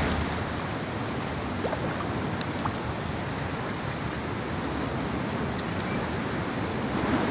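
Steady wind rumbling against the microphone outdoors, an even noise with no distinct events.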